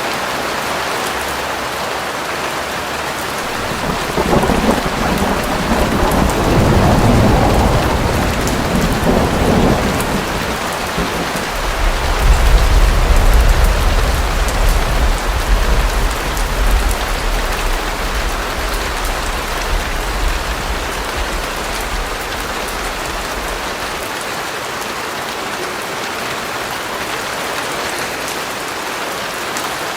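Steady heavy rain falling, with a long roll of thunder that swells in about four seconds in, is loudest a little before halfway and rumbles away by about three quarters of the way through.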